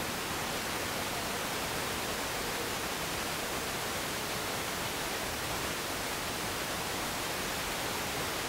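Steady, even hiss of static with no distinct sound in it.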